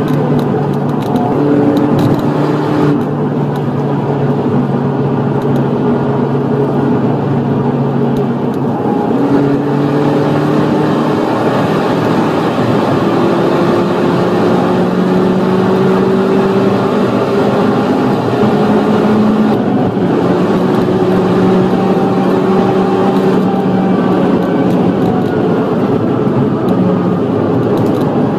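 Opel Astra H OPC's turbocharged four-cylinder engine running under full throttle in fourth gear, heard from inside the car. Its pitch climbs slowly through the middle and drops back several times as the revs change.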